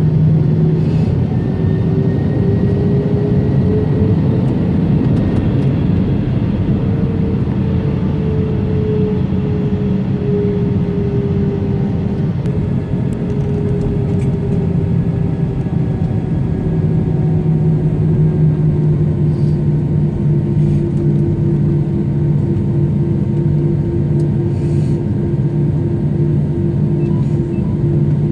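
Jet airliner engines running in a steady, loud rumble, with an engine tone that climbs over the first few seconds, eases back down, then holds steady.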